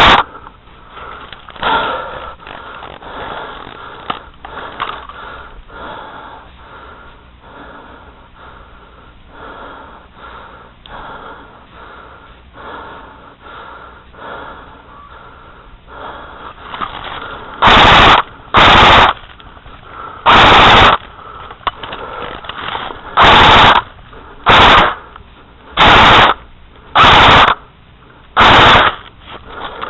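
Airsoft rifle firing short full-auto bursts, about eight of them in quick succession in the last twelve seconds, loud enough to clip. One burst comes right at the start, and a long quieter stretch lies between.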